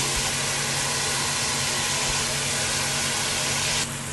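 Onion, tomato purée and ginger-garlic paste masala frying in hot oil in a pan: a steady sizzle with a low hum underneath, being sautéed until done. The sizzle drops suddenly near the end.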